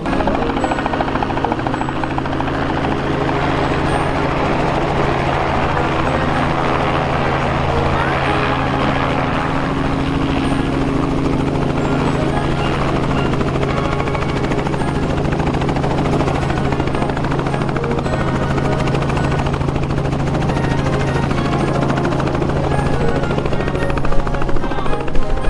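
Police helicopter running steadily, its turbine and rotor making a constant drone with a steady low hum. Loud sharp bursts come in near the end.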